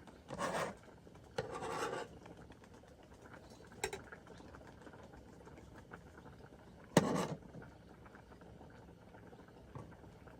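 A few short scraping and rubbing noises, a light click about four seconds in, and a sharper knock with a brief scrape about seven seconds in, the loudest sound.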